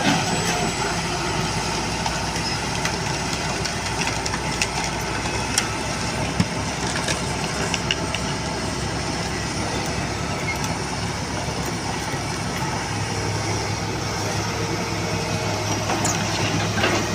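Excavator's diesel engine running steadily, with a few short knocks partway through.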